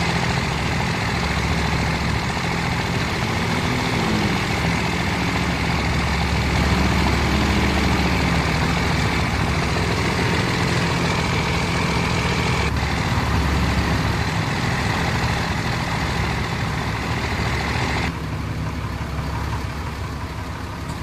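Truck engines idling with a steady low rumble; the sound thins out about eighteen seconds in.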